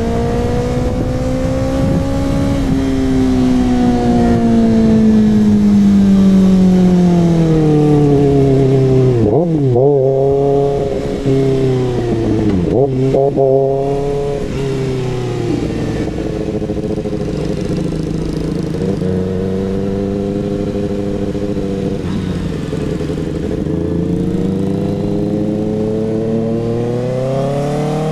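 Kawasaki ZX-6R inline-four engine through an SC-Project CRT exhaust. Revs fall steadily from high, then two brief rev blips, a long stretch of steady low revs, and revs climbing again near the end.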